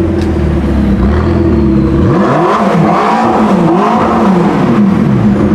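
A supercar's engine revving hard: a steady low note, then about two seconds in the revs climb sharply, followed by several quick rises and falls in revs.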